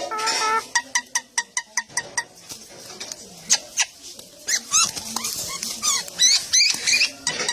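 Songbird calling in a rapid series of sharp chips and short whistled notes, with a faint low wavering whine underneath.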